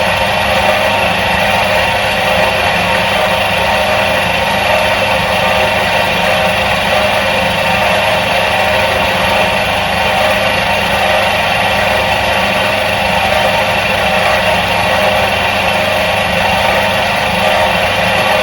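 Electric motor of a 1977 Soviet washing machine running steadily. It makes an even hum with several held tones over a whir, with no change in speed.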